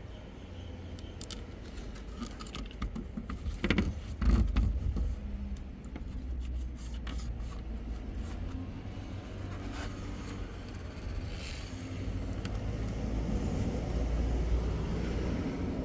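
Hands working a replacement touch-panel ribbon cable onto a washing machine's control board: small scrapes and clicks of plastic and film being pressed and stuck down, loudest about four seconds in, over a steady low rumble.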